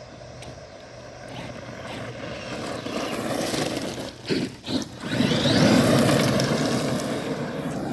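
Radio-controlled car driving, its motor whine and tyre noise growing louder as it comes closer. It is loudest about five to seven seconds in, after a brief dip.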